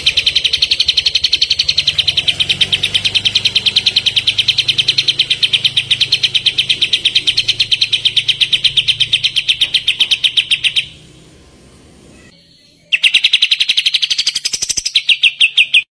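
A songbird's rapid trill of evenly repeated chattering notes, about seven a second. It breaks off for a couple of seconds and then resumes, ending in a quicker burst.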